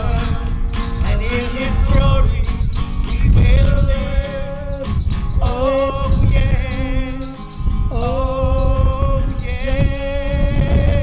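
Worship song: a voice singing long held notes that waver in pitch, over instrumental backing. Wind rumbles on the microphone throughout.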